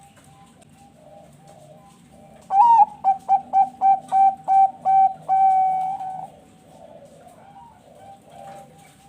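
Zebra dove (perkutut bangkok) singing: a rising opening note, then about seven short clipped coos at roughly three a second, ending on a longer drawn-out note. Softer cooing from other doves carries on underneath.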